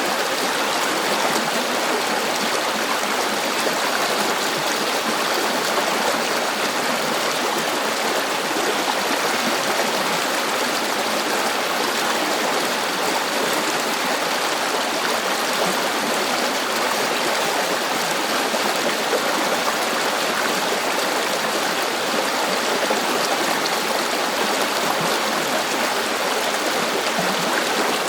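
A river or stream flowing, a steady rushing and babbling of water with no pauses or changes.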